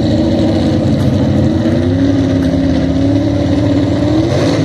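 Pulling truck's engine running loud and steady, its pitch sagging about two seconds in and then climbing again near the end.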